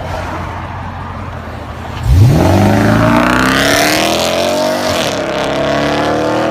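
Jeep SRT8's Hemi V8 through a Borla exhaust, running steadily, then opening up suddenly about two seconds in and accelerating hard, its pitch climbing. The pitch drops briefly about five seconds in, then climbs again.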